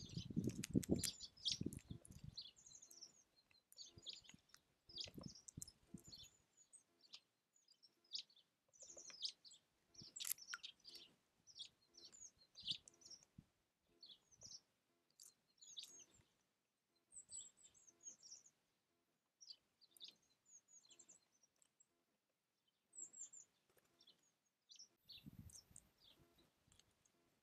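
Small songbirds chirping and twittering in short, scattered calls throughout. Near the start there are a few dull, low thumps, louder than the calls, with more around five seconds in and again near the end.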